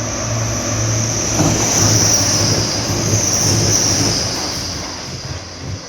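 A train moving through a station, its wheels giving a high, steady squeal over a low hum. The sound swells to its loudest in the middle and eases off near the end.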